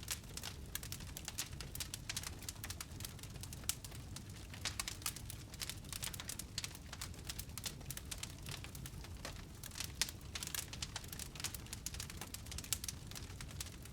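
Wood fire in a fireplace crackling: dense, irregular snaps and pops over a low, steady rumble.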